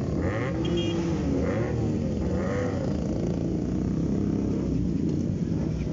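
Motorcycle engine running steadily while riding, with traffic noise around it.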